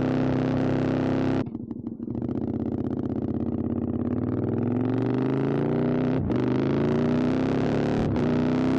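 QJ Motors SVT650X V-twin running through an Arrow Racetech exhaust: the revs hold steady, the throttle snaps shut about 1.5 s in, then the engine pulls with steadily rising revs. Two very short breaks in the sound, near 6 s and 8 s, fit quickshifter upshifts.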